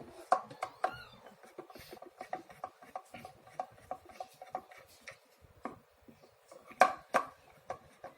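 Irregular small clicks, taps and rubbing of tools and plastic casing parts as a facial steamer is taken apart, with two louder knocks about seven seconds in.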